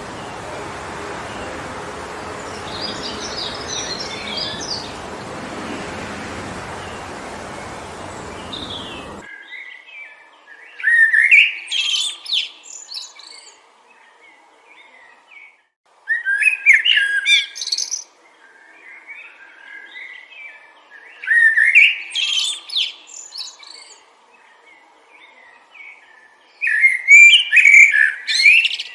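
Steady wind noise in the trees with a few faint bird chirps, cutting off abruptly about nine seconds in. Then a songbird sings loud, warbling phrases about two seconds long, roughly every five seconds.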